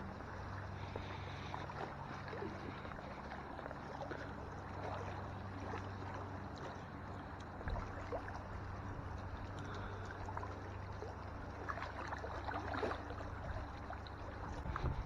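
A boat motor hums steadily at a low pitch, with water lapping and splashing lightly against the hull.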